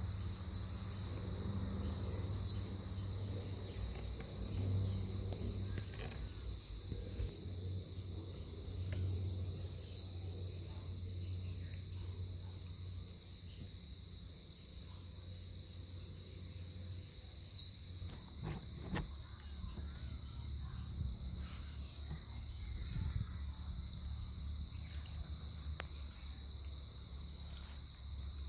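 Steady high-pitched chorus of crickets or other insects, with short high chirps recurring every two to four seconds.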